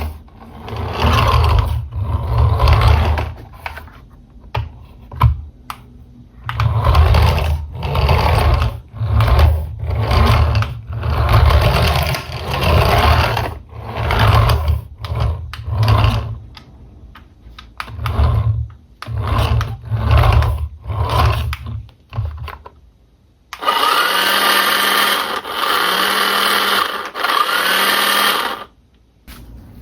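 Small electric motor of a toy RC car whirring in short bursts, over and over, as if run on and off. Near the end comes a steadier whirring of about five seconds, with a steady tone and a few short rising and falling tones, broken twice.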